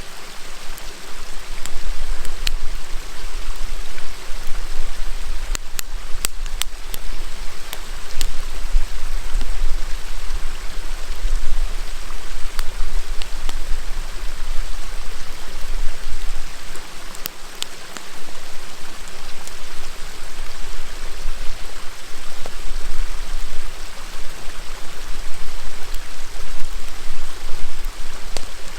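River murmuring steadily, with sharp crackles and pops from a wood fire scattered through, several in quick succession about six seconds in. A low rumble runs underneath.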